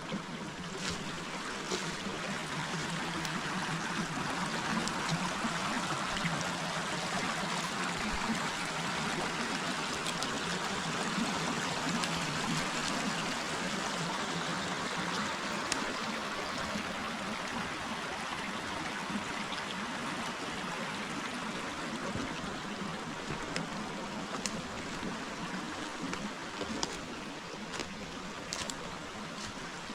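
A forest river flowing: a steady rush of water, with a few faint clicks over it.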